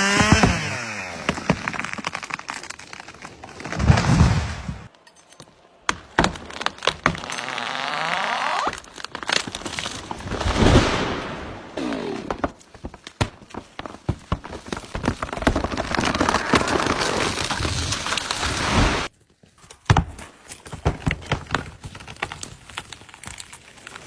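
Felled trees cracking and crashing down: repeated sharp cracks and snapping of breaking wood, with heavy thuds. The sound comes in separate stretches with abrupt breaks between them, and a chainsaw engine winds down at the very start.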